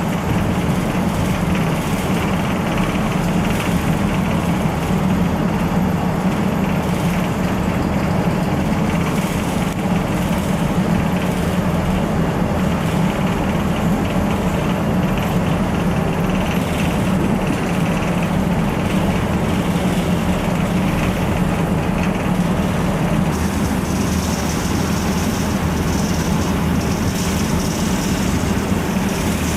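Steady low engine rumble, with a band of hiss above it that shifts a little near the end.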